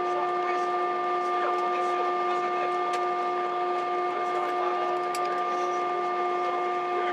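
Steady whine and hum of a jet airliner's engines as heard inside the passenger cabin, several fixed pitches held over a constant rushing noise.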